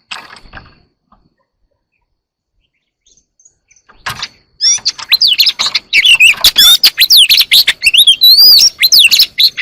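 Songbird singing loud, fast, varied whistled phrases of rising and falling notes mixed with sharp clicks, starting about halfway through after a brief noise and a quiet stretch.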